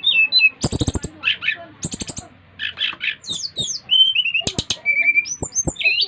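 SRDC (sikatan rimba dada coklat, a jungle flycatcher) singing: a run of clear whistled notes, some falling and some held level, broken by harsh rattling chatter near the start and sharp clicks about two-thirds through.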